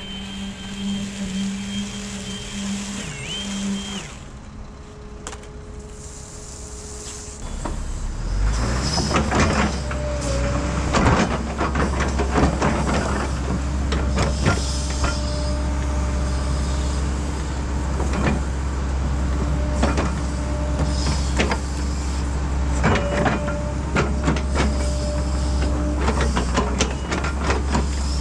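Heavy diesel equipment running: a deep steady engine drone comes in about seven seconds in, with frequent knocks and clanks over it. The first few seconds hold a steadier humming whine.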